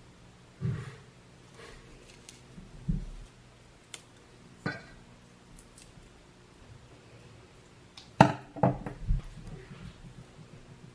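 Scattered knocks and clicks of objects being handled, with a quick run of louder knocks about eight seconds in.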